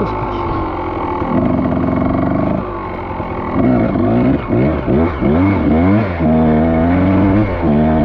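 Dirt bike engine running under throttle, fairly steady at first, then revving up and down in quick, repeated swings of pitch through the second half.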